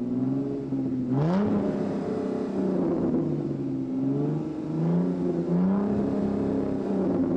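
Vehicle engine sound revving, with a sharp rise in pitch about a second in, then several more rises and falls as it idles and revs.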